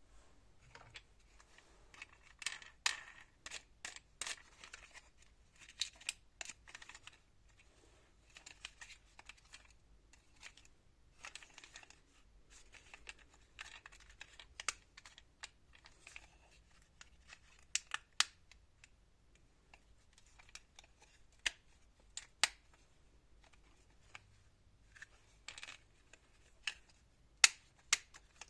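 Handling noise from toy cars: irregular sharp clicks and short rustles.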